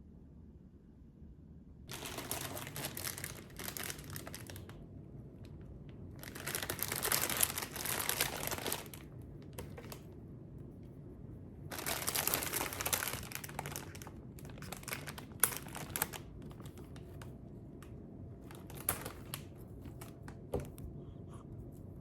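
Paper or plastic wrapping being crinkled and handled in several long bursts, with small clicks and rustles between them.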